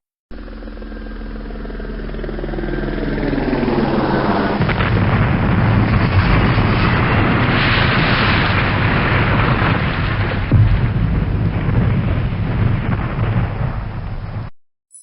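A loud explosion-like roar: a whine rising in pitch over the first few seconds swells into a dense, sustained blast with a sharp bang about ten and a half seconds in, then cuts off abruptly near the end.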